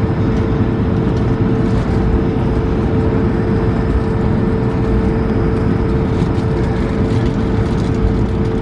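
Steady cabin noise of an Airbus A220-300 in motion: the rush of its Pratt & Whitney PW1500G geared turbofans and airflow, with a steady hum tone running through it.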